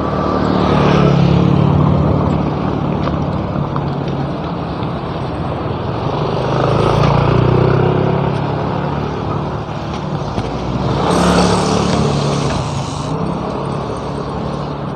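Road traffic: motor vehicles passing one after another over a steady rumble of road noise, with three louder passes that swell and fade, the last one close with a hiss of tyres or rushing air.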